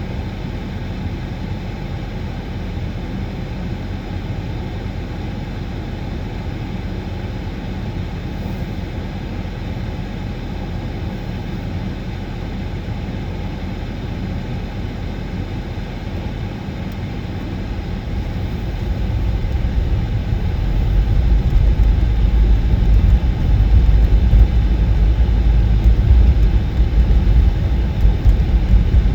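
A vehicle running, a steady low rumble that grows louder and heavier about two-thirds of the way through.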